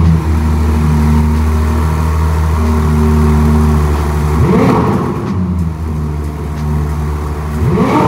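Ferrari 296 GTS's twin-turbo V6 idling, with two quick throttle blips, one about four and a half seconds in and one near the end; each time the revs rise and fall straight back to idle.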